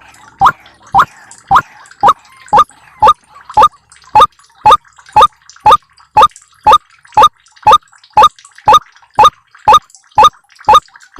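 White-breasted waterhen (ruak-ruak) call played as a bird-trapping lure: a short note sweeping upward around 1 kHz, repeated at a steady, even rate of about two a second.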